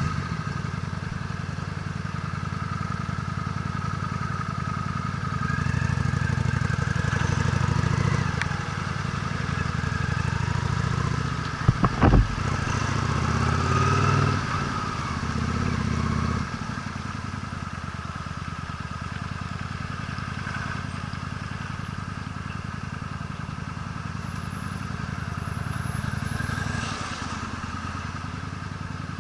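Honda Steed V-twin motorcycle engine running on the move, getting louder twice as the throttle is opened and then settling back. A short sharp knock comes about twelve seconds in.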